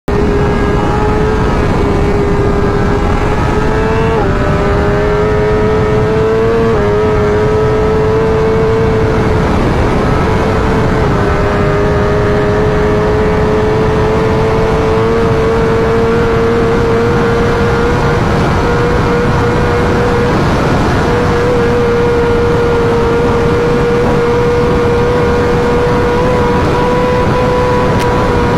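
BMW S1000RR superbike's inline-four engine under hard acceleration, its pitch climbing and then dropping at three upshifts in the first eleven seconds, then holding a high, slowly rising pitch. Heavy wind rush throughout.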